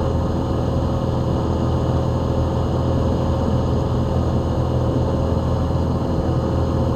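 Van's RV-7 light airplane's piston engine and propeller droning steadily, heard inside the cockpit.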